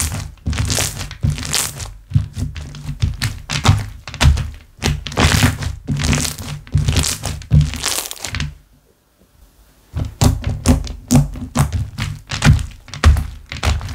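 Slime being squeezed, pressed and poked by hand: a rapid series of squishes and soft thuds. There is a pause of about a second roughly two-thirds of the way through.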